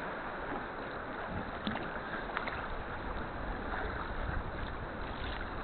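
Sea kayak being paddled: water splashing and lapping around the paddle and hull, with a few small splashes and a low rumble in the second half.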